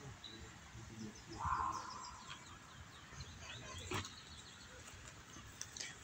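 Birds chirping in the trees: a short louder call about a second and a half in, then a quick run of small high chirps, with a couple of faint clicks.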